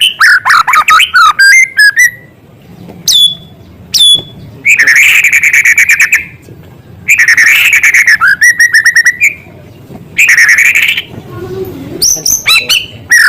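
White-rumped shama (murai batu) singing loud, fast phrases of rapid trills and sharp whistled notes, with brief pauses between phrases.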